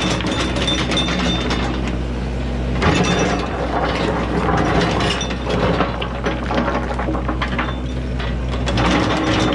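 Yanmar ViO80 excavator's diesel engine running steadily under a dense clatter and rattle of metal and gravel as the machine works the road, with a louder knock about three seconds in.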